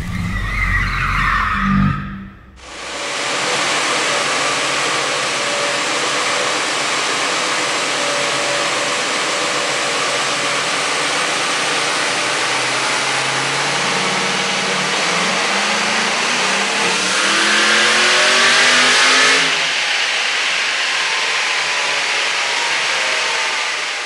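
Twin-turbocharged 2003 Corvette Z06's 5.7-litre LS6 V8 on a chassis dyno: a steady loud rush of engine and rollers, then a full-throttle pull, the engine pitch climbing for about seven seconds. Near the end of the pull the throttle closes and the revs wind down.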